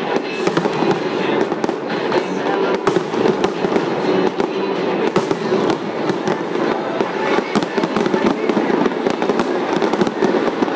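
Fireworks going off in dense, rapid succession: many bangs and crackles overlapping without a break, with music playing underneath.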